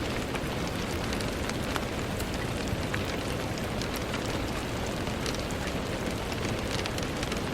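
Steady rain falling on a window, an even hiss with many small drops ticking against the glass.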